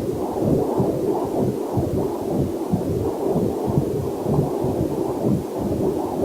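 Fetal Doppler heart monitor sound: muffled, whooshing heartbeat pulses about two to three a second, with a faint waterfall hiss mixed underneath.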